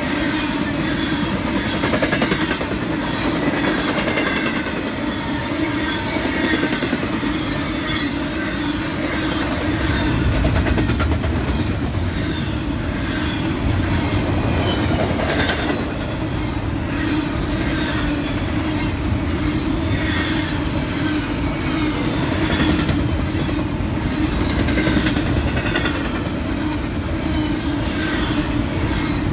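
Union Pacific freight cars rolling past at trackside, wheels clicking over the rail joints over a steady rumble. A deeper rumble comes in about ten seconds in, as double-stack container cars go by.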